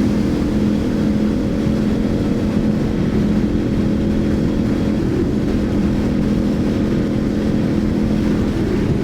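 Motorcycle engine running at a steady pitch at road speed, with wind rushing over the microphone.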